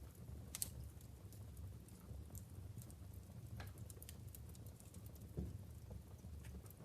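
Wood fire burning in a fireplace: faint, irregular crackles and pops from the burning logs over a low steady rumble. The sharpest pop comes about half a second in.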